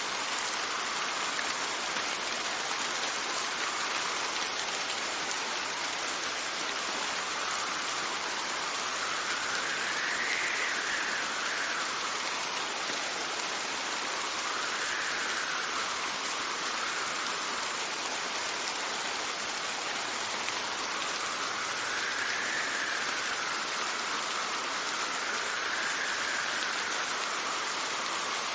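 Steady heavy rain hissing, with gusts of wind whose whistle rises and falls in pitch several times.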